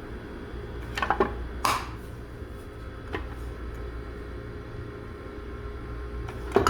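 Steady low hum from a DNA Engine PCR thermal cycler, with several sharp clicks and knocks of handling: a pair about a second in, another just after, a faint one a second later and a loud one near the end.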